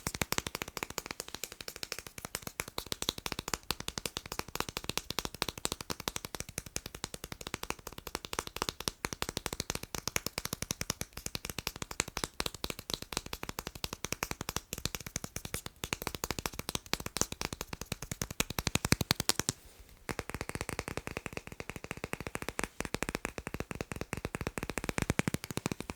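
Fast tapping on magnets: a dense run of quick, sharp taps that breaks off for a moment about twenty seconds in, then resumes with a different tone.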